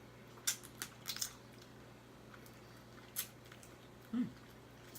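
A person eating crab close to the microphone: a few short, wet smacking clicks in the first second and a half and another about three seconds in, then a brief hummed "mm" about four seconds in.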